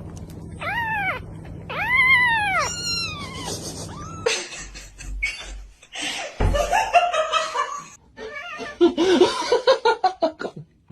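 A cat meowing three times, each meow rising and then falling in pitch, the last two close together. Near the end a person laughs.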